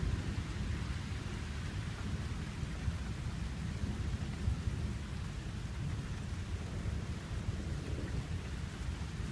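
Thunder rumbling on without a break, low and steady, over the hiss of falling rain during a severe thunderstorm.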